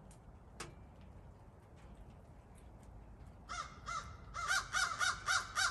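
A crow cawing in a rapid run of about nine harsh caws starting about halfway in: agitated calls of a crow mobbing a turkey vulture.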